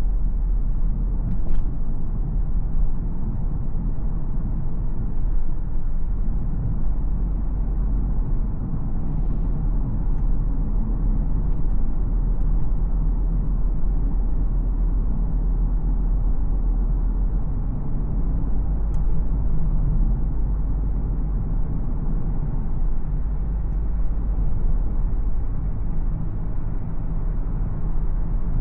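Steady low rumble of a BMW X4 xDrive20d driving: its two-litre four-cylinder turbodiesel and the tyres on the road, with no marked revving or gear changes.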